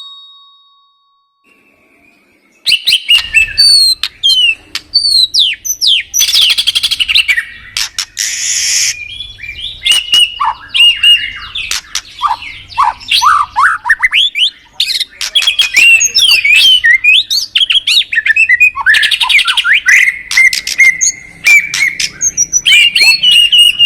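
Songbird singing a loud, fast, varied song of whistled glides, trills, clicks and harsh buzzy notes, starting about three seconds in.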